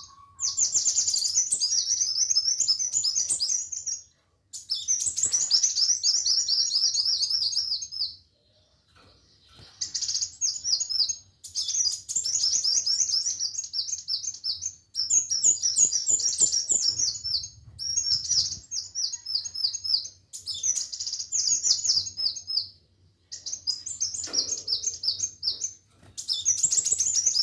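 Sunbird (kolibri wulung) singing in full voice: phrases of fast, high-pitched twittering notes, each a few seconds long, repeated again and again with short pauses.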